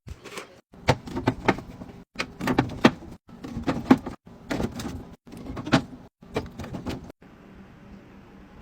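Drink bottles and cans being handled and set into a fridge while restocking it: quick runs of clacks and knocks in about seven short pieces, each cut off abruptly. Near the end only a faint hiss is left.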